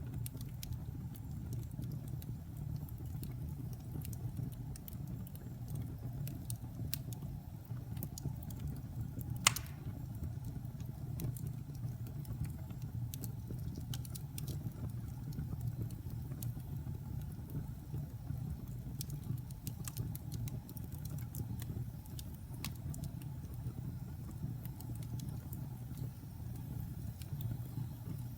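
Wood fire in a fireplace crackling over a low steady rumble, with scattered small pops and one loud sharp pop about nine and a half seconds in.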